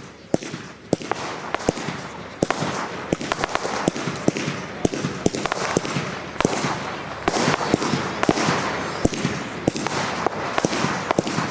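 Professional aerial fireworks display: many sharp bangs from bursting shells over a dense, continuous crackle, thickening about a second in.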